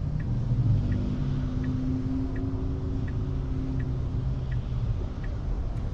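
Inside a Tesla Model 3's cabin, stopped at a yield: a faint turn-signal ticking, about one tick every 0.7 s, over the low rumble and hum of oncoming traffic going by on wet roads.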